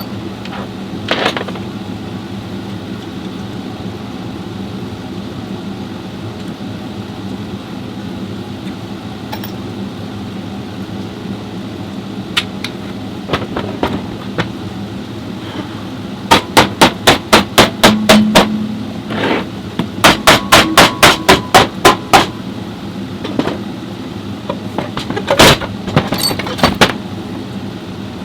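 Sharp metal knocks from tools at work on a CVT transmission being taken apart, coming in two quick runs of about six knocks a second in the middle, with a few single knocks before and after, over a steady hum.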